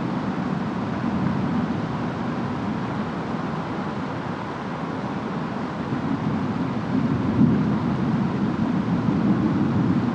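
Distant storm ambience: steady rain and wind noise with a low rumble that swells and grows louder from about six seconds in.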